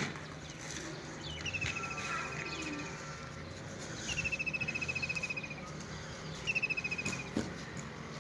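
A songbird singing a short, rapid trill that falls slightly in pitch, repeated three times about every two and a half seconds.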